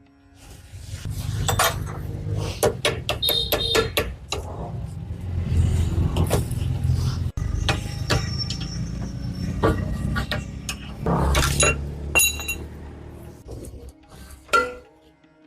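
Metal parts and tools clinking and knocking in irregular strikes, some ringing briefly, over a low steady rumble that fades out a couple of seconds before the end.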